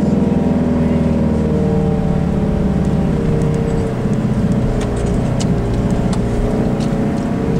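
Engine of a vehicle being driven slowly, heard from inside its cab: a steady running note over a low road rumble.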